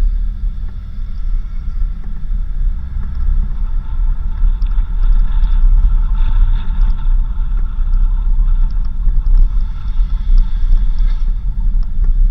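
A 4x4 vehicle driving on a dirt road: a steady low rumble of engine and tyres, with a fainter high whine that swells about halfway through and scattered small clicks.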